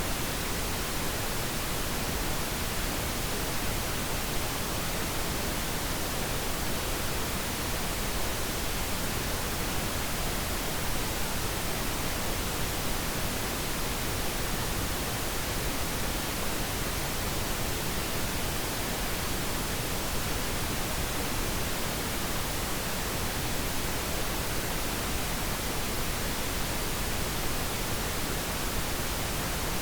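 Steady pink noise: an even, unchanging hiss across the whole range.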